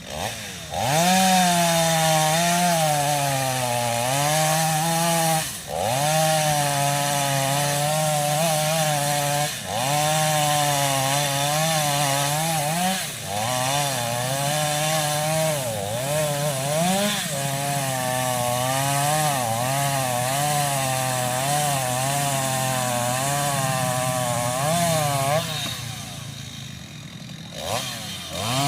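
Chainsaw running at high speed while cutting into a tree. Its pitch wavers under load and briefly sags several times before picking up again. It quietens for a couple of seconds near the end, then revs back up.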